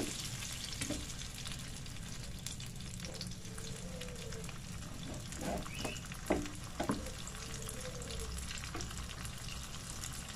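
Ground spice paste sizzling as it is sautéed in oil in a wok, with a spatula stirring and scraping through it and knocking on the pan a few times around the middle. The paste is being fried until cooked, the base for a fish curry.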